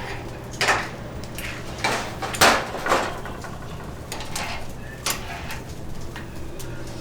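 Metal kitchen utensils and pans clinking and clattering in irregular knocks, over a steady low hum.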